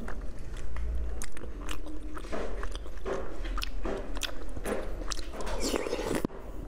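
Close-miked chewing of a mouthful of black tapioca pearls and green cream cake, wet and sticky with many short, sharp clicks.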